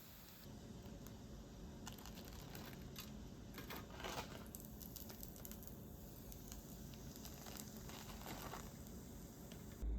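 Faint rustling and crinkling with scattered small clicks, louder in short bursts about four seconds in and again near the end.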